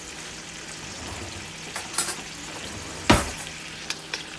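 Cubed raw chicken breast sizzling steadily in hot oil in a wok, with a few light clicks and one loud sharp knock about three seconds in.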